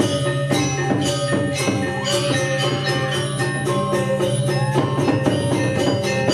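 Balinese gamelan music: fast, even strikes of ringing, bell-like tones over a steady low drone.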